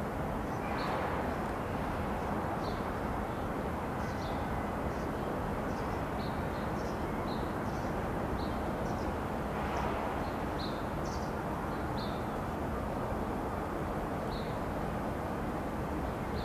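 Steady outdoor background hum with small birds chirping in short, high calls every second or so.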